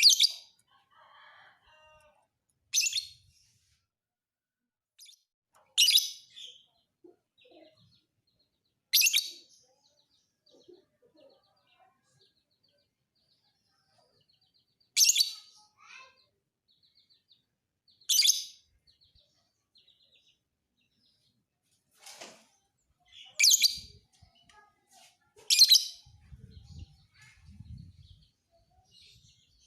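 Lovebird giving loud, short, high chirps, about nine of them a few seconds apart, with faint twittering in between.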